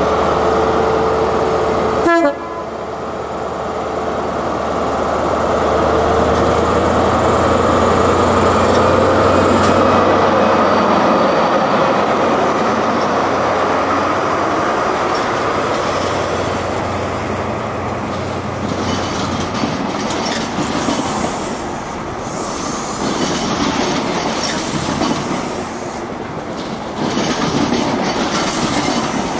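A train running on rails: a steady rumble and rail noise, with a brief sharp knock about two seconds in.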